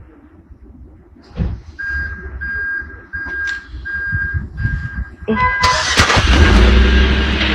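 A vehicle's reversing alarm beeping at a steady pitch, about one and a half beeps a second, over low engine rumble. About five seconds in, a vehicle moves up close and a loud rushing noise with heavy engine rumble takes over.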